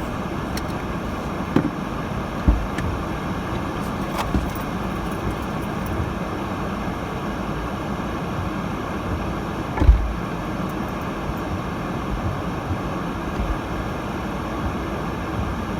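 Steady road and tyre noise heard inside a moving 2018 Subaru Crosstrek's cabin on a snowy road, with a few short low thumps, the loudest about ten seconds in.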